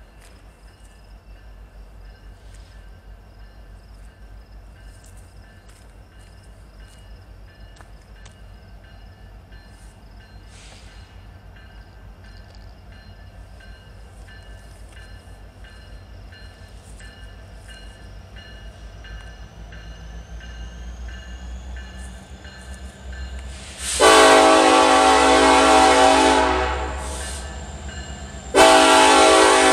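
Approaching freight train's diesel locomotives rumbling low, growing slowly louder, then the lead locomotive's air horn sounds a long chord blast of about three seconds, with a second blast starting near the end.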